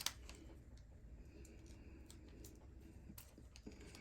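Faint, scattered light clicks and ticks of small tools and parts being handled while small screws are worked loose from an RC car differential.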